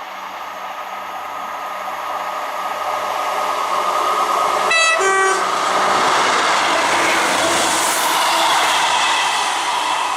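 Class 158 diesel multiple unit approaching and passing through the station, its noise building to a peak in the second half. About five seconds in, the driver gives a short two-note horn tone, high then low, as an acknowledgement to the person on the platform.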